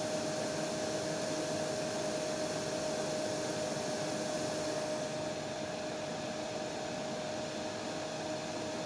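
Hair dryer running steadily: an even rushing hiss of blown air over a constant motor hum. About five seconds in, the highest part of the hiss falls away and the sound gets slightly quieter.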